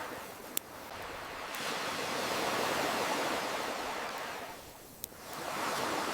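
Ocean waves washing in, swelling to a peak and falling away, with two sharp pops of a crackling wood fire, one just after the start and one near the end.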